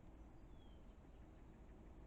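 Near silence: faint outdoor background hiss, with one faint high falling chirp about half a second in.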